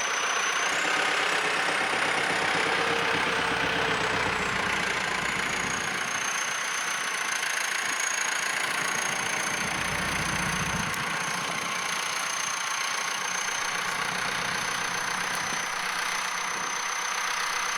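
An engine idling steadily, with a thin high whine that rises briefly about a second in and then holds level.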